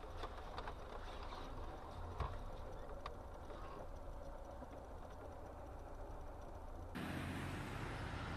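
Car cabin road and engine noise as picked up by a dashcam: a steady low rumble with a few faint clicks. About seven seconds in it changes abruptly to a louder, hissier road noise.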